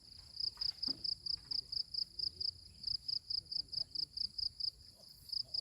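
Insect chirping in a fast, steady, high-pitched pulse, about four or five chirps a second.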